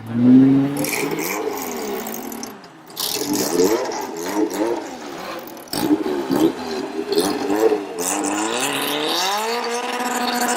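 Car engine being revved: its pitch swings up and down in repeated blips, then climbs and is held steady at high revs near the end.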